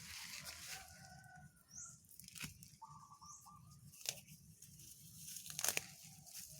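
Weeds being pulled up by hand: a few short ripping tears of roots leaving the soil, about two and a half, four and five and a half seconds in, with short clucking calls of chickens in between.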